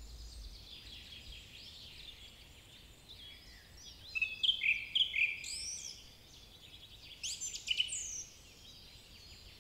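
Wild birds chirping and calling: short, quick notes, fainter at first and clustering into a busier run between about four and eight seconds in.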